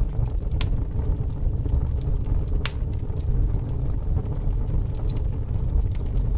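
Fire burning with a steady low rumble and scattered sharp crackles and pops, two of them louder, about half a second and a little under three seconds in.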